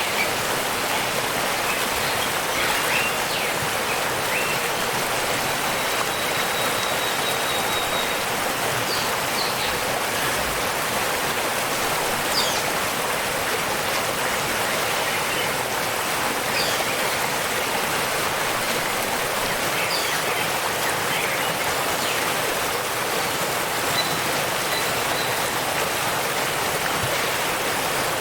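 Waterfall rushing in a steady, even hiss of falling water, with a few faint high chirps now and then over it.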